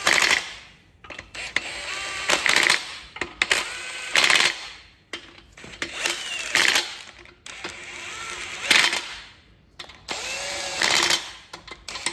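Impact wrench run in short bursts, about six trigger pulls roughly two seconds apart, each spinning up and winding down, while running down bolts on a Chrysler 440 big-block.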